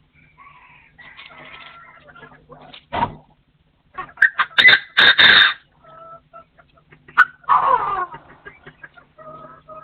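Wild partridge calling: a few loud harsh calls in the middle, bunched around four to five and a half seconds in, then a call sliding downward near eight seconds, with softer chirps between.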